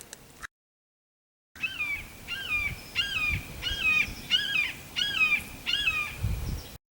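A bird calling a steady series of about ten short notes, roughly two a second, each sliding sharply up and then holding.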